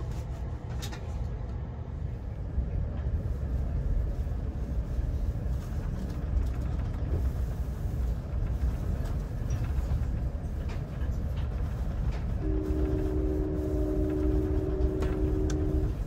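Steady low rumble of a moving Amtrak Pacific Surfliner passenger train, heard from inside the coach. Near the end, a horn sounds one long, steady chord for about three and a half seconds.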